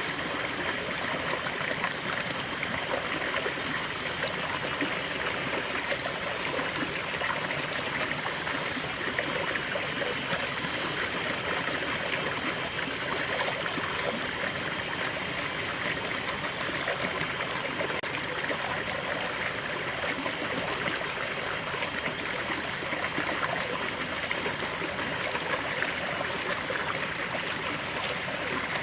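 A small waterfall and forest stream flowing steadily: water splashing and burbling over rocks, an even rushing with no change.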